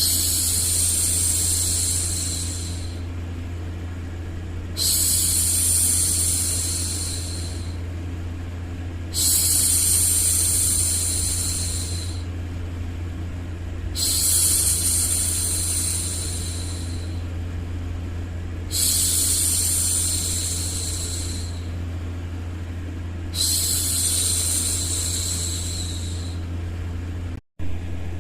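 A woman's voice shushing 'shhh' six times, each about three seconds long and about every four and a half seconds, over a steady low white-noise hum. The sound cuts out for an instant near the end.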